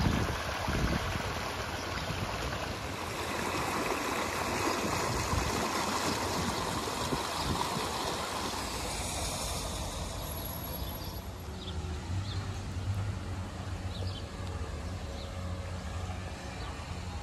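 Rainwater runoff rushing and splashing over rocks in a stone-lined channel. After about ten seconds it gives way to a softer hiss with a low rumble underneath.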